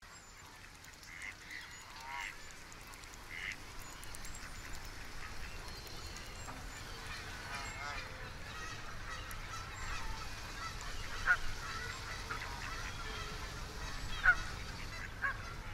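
Birds calling again and again over a steady outdoor ambience that fades in at the start, with a few sharper calls in the second half.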